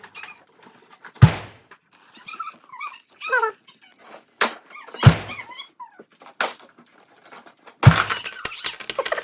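Three loud, heavy thumps with a deep low thud, the first about a second in, the second near the middle and the third near the end, with lighter knocks between them. High, wavering, whining voice sounds rise and fall in the gaps, and a quick clatter of small knocks follows the last thump.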